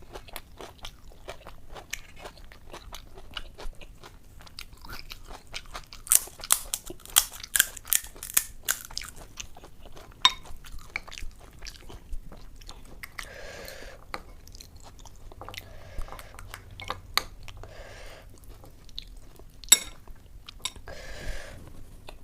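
Close-miked eating of pani puri: crisp fried puri shells crackling and crunching between the teeth, with a dense run of loud crunches about six to nine seconds in, then quieter chewing.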